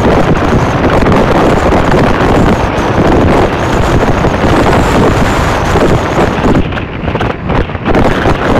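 Wind rushing and buffeting over the microphone on a moving passenger train, mixed with the train's running noise on the track. The noise is loud and steady and eases briefly a little before the end.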